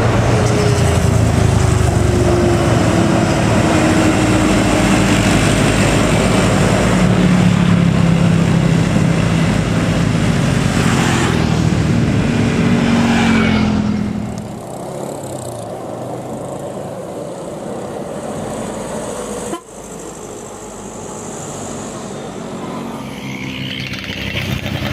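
Heavy diesel trucks labouring up a steep climb, their engines loud and close for the first part, then dropping clearly in level about fourteen seconds in as they move away.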